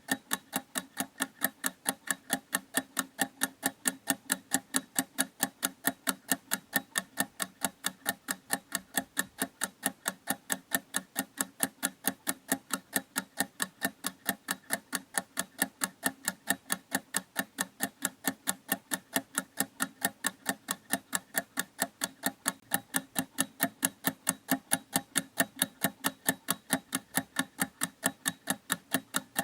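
Clock ticking steadily, a few even, sharp ticks a second.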